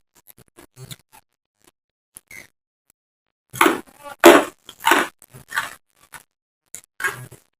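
Close-up mouth sounds of eating: a run of loud chewing and lip-smacking bursts a few seconds in, and another near the end, after faint small clicks at first.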